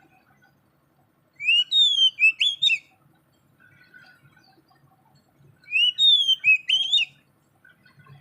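A songbird singing the same short phrase twice, about four seconds apart: a quick run of clear whistled notes that slide up and down.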